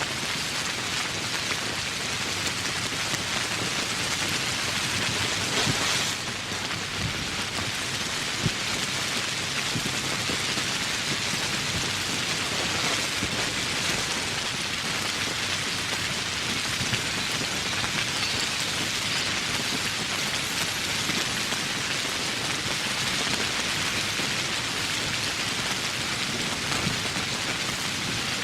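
Steady heavy rain falling, a dense even hiss with a few sharper drop ticks and a brief louder swell about six seconds in.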